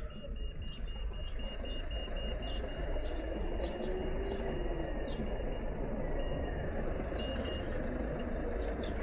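Street traffic at an intersection: vehicles running and passing with a steady low rumble, while the stopped scooter's own engine is shut off by its automatic start-stop. A faint high beeping comes and goes.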